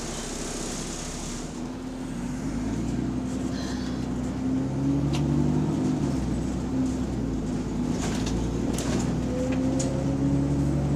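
Bus engine running under load, getting louder about two seconds in, with a few clicks and rattles over it. The engine has a large exhaust leak.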